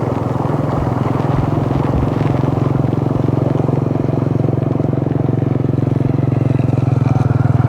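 Small engine running steadily with a rapid even putter, gradually getting louder.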